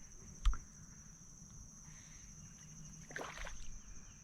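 Small-boat sounds from a kayak on the water: a single sharp knock about half a second in, then a short splashy swish of water about three seconds in, under a steady high-pitched buzz.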